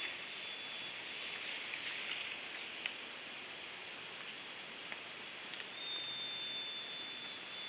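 Steady outdoor background hiss with a few faint ticks; a thin, high, steady tone comes in near the end.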